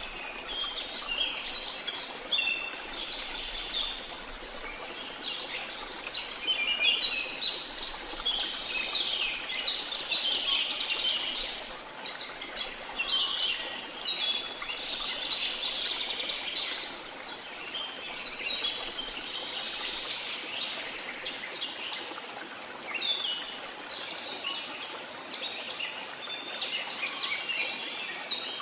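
Dense chorus of many birds chirping and trilling continuously, over a steady rushing wash of waterfall water.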